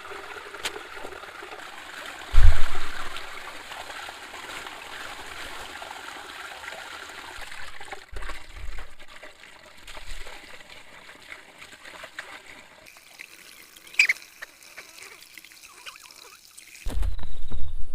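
Water trickling and dribbling, likely rainwater running off during heavy rain. There is a loud low thump about two and a half seconds in, a few softer low bumps later, and heavy low rumbling near the end.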